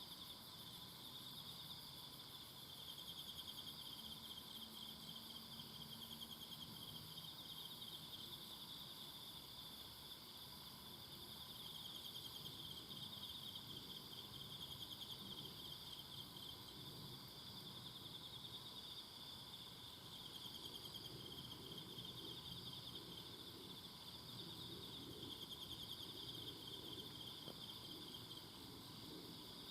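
Faint, steady chorus of many insects trilling together, a continuous high, finely pulsing buzz.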